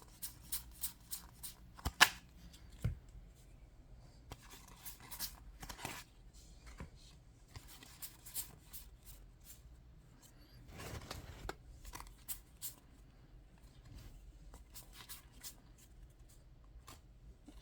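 Yu-Gi-Oh! trading cards being handled and flipped through one after another: a run of short clicks and light slaps, with a sharper snap about two seconds in and a longer rustle around the middle.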